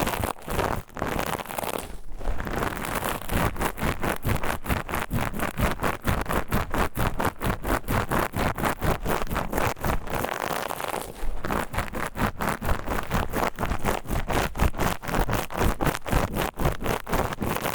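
Steel wool scrubber rubbed against the ear of a dummy-head microphone, a rapid, rhythmic scratchy scraping of about five strokes a second, with short pauses twice.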